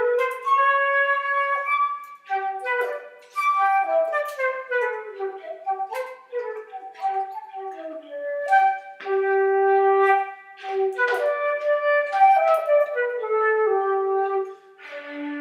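A solo melody on a flute-like wind instrument: one line of single notes, some held and some sliding, moving up and down without accompaniment.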